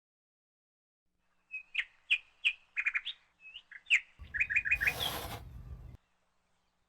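A small bird chirping in quick, repeated short notes, starting about a second and a half in. From about four seconds a low rumble runs beneath the chirps for a couple of seconds, with a short hiss near five seconds.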